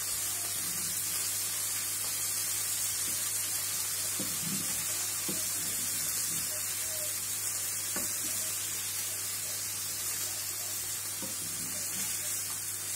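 Egg-battered pollock fillets sizzling steadily in oil in a frying pan, with a few light taps of the utensil against the pan as the pieces are turned over.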